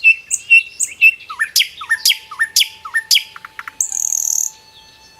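Bird song: a quick run of short chirps and sharp sweeping notes, ending about four and a half seconds in with a brief buzzy high note, after which faint steady tones hang on.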